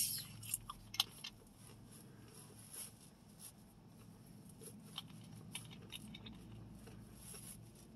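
Faint close-up chewing, with scattered small clicks, the sharpest of them in the first second or so.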